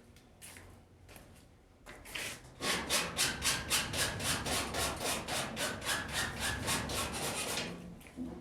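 A hand tool worked back and forth on a workpiece, with fast, even sawing or rasping strokes at about five a second. The strokes start a little over two seconds in and stop shortly before the end.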